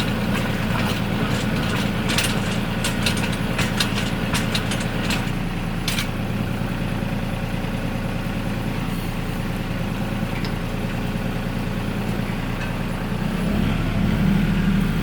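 RK37 compact tractor engine running steadily, with a run of sharp clicks and knocks in the first several seconds. Near the end the engine note drops and gets louder.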